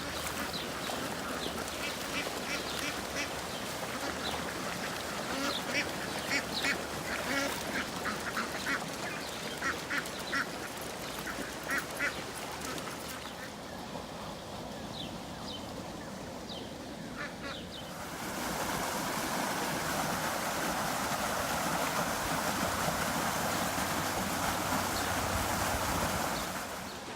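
Domestic ducks quacking in many short calls over the first half. About two thirds of the way in, a louder steady rushing noise starts suddenly, then cuts off near the end.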